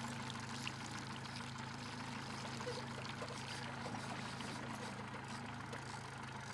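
Steady low hum of a river boat's motor running slowly, under a continuous rush of moving water.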